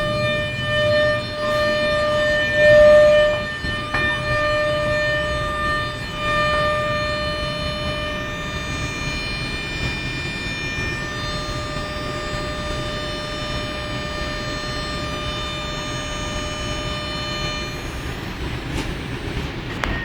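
Trenord TSR suburban electric train heard from inside a passenger car: a low running rumble with a steady high whine at one pitch, loudest about three seconds in, that fades away over about eighteen seconds.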